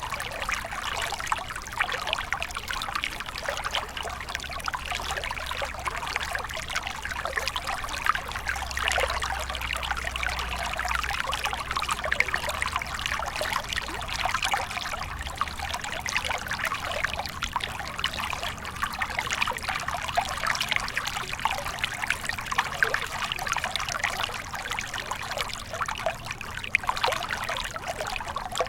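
Small stream flowing over stones, a steady trickling and babbling.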